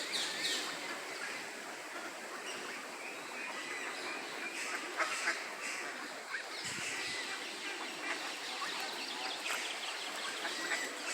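Many birds calling, with short overlapping calls scattered throughout.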